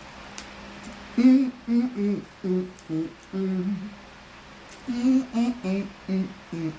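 A person humming a tune with the mouth closed, in two short phrases of separate notes, the first about a second in and the second near the end.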